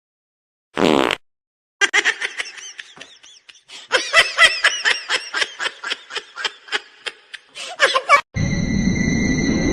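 Laughter, likely a dubbed-in laugh sound effect: a string of rapid, chopped laughs with rising and falling pitch for several seconds. Near the end it cuts off and a steady droning sound effect with a few held high tones starts abruptly.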